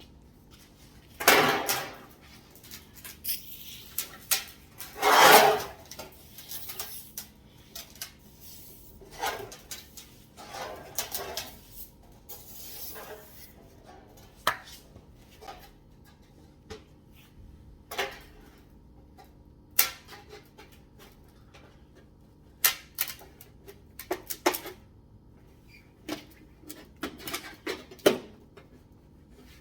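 Thin sheet-metal dryer vent pipe being handled and snapped together by hand: irregular metallic clicks, rattles and crinkles, with two louder scraping rustles about a second in and about five seconds in.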